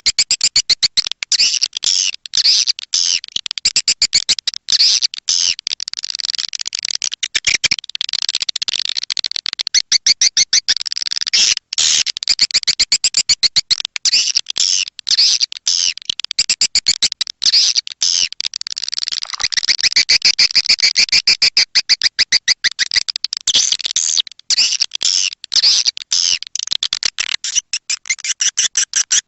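Swiftlet lure-call recording: dense, rapid high-pitched chirping and clicking of swiftlets, repeating without pause.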